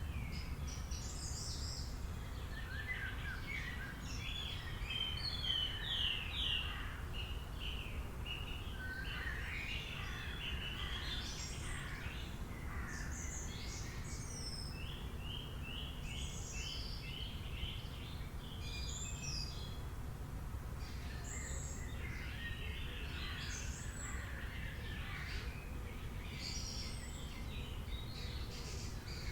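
Several birds calling, with short chirps and quick runs of repeated notes, over a steady low rumble of background noise.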